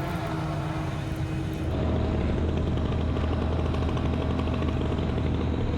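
Grove truck crane's diesel engine running steadily, then stepping up to a louder, busier note about two seconds in as it takes on load, and holding there.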